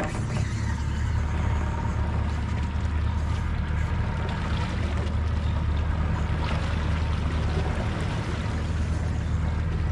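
Boat motor running steadily under way, a low even hum, with water rushing and splashing along the hull.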